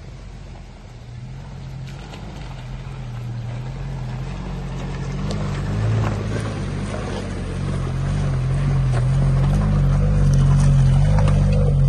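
Suzuki Vitara's 1.6 four-cylinder petrol engine running at low, slightly wavering revs as the vehicle crawls in first gear over rocks, getting louder as it comes up close. A few sharp clicks and knocks from stones under the tyres come in the second half.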